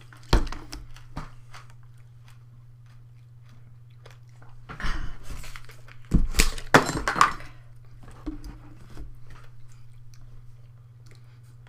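Handling and eating noises: a sharp knock about half a second in, a lighter one just after, then bursts of crunching and rustling around five seconds in and again, louder, about six to seven seconds in.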